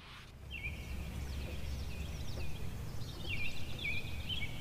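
Birds chirping in short repeated notes and quick sweeps, over a steady low rumble.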